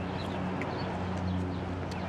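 Chewing close to the microphone, with a steady low hum underneath and small birds chirping briefly and often.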